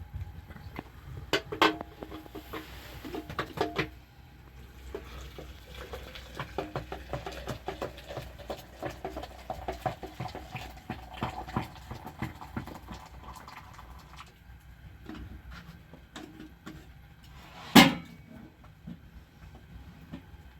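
Metal cookware and utensils being handled: scattered clinks and knocks, a few ringing briefly in the first few seconds, and one sharp loud clank near the end.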